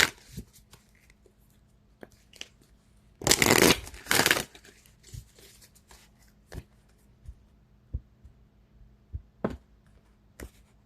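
A deck of oracle cards being shuffled by hand: a loud rustling burst of shuffling a little over three seconds in, then scattered light taps and clicks as the cards are handled.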